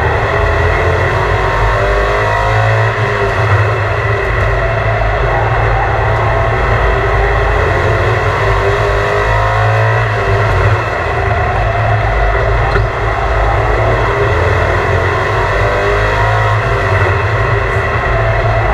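Loud, steady vehicle engine noise, with a few rising and falling sweeps in pitch.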